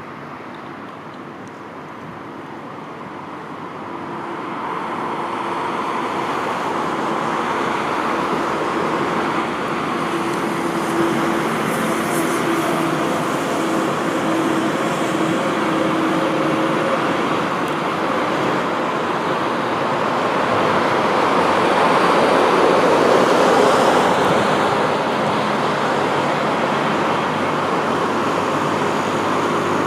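Passenger train running past. Its rumble builds over the first few seconds and then holds loud, with a steady humming tone through the middle.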